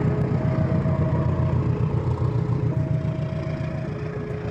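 KAI passenger train passing a level crossing with a steady rumble, while the crossing's warning alarm sounds two tones, high and low, each held about a second in turn.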